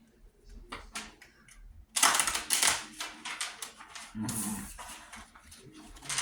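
Playing cards being handled and sorted: scattered flicks and taps, with a dense run of rapid card clicks about two seconds in. A brief low vocal sound comes about four seconds in.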